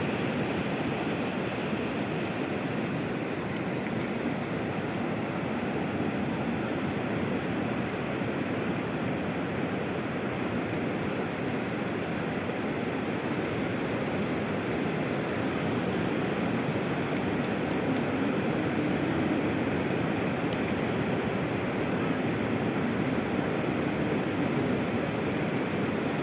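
Sea surf washing steadily, a continuous rushing noise with no single wave breaking out above it.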